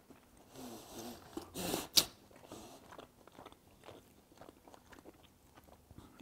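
A person chewing a bite of seared dry-aged rib-eye steak, the crust crunching, with a single sharp click about two seconds in and softer chewing clicks after.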